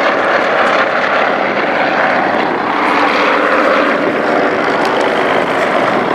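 Piston-engined propeller warbird flying past, its engine running loud and steady, swelling slightly about three seconds in.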